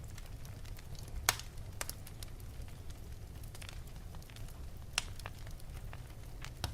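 Wood fire in an open fireplace crackling, with a steady low rumble of the flames under scattered sharp pops, the loudest about a second in and another about five seconds in.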